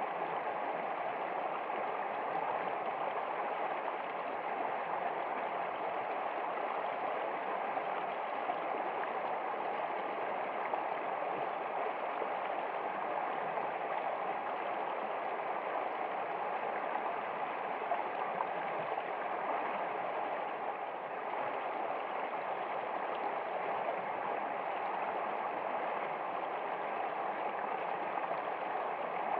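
Steady running water of a stream, an even, continuous rushing and gurgling without breaks.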